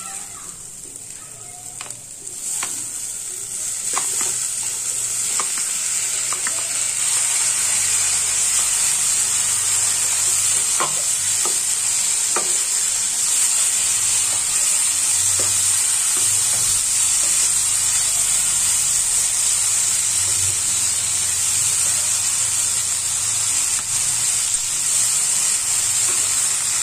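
Vegetables frying in hot mustard oil in a non-stick kadhai, stirred with a wooden spatula that knocks and scrapes now and then. The sizzle swells about three seconds in, as the chopped tomatoes go in, then holds steady.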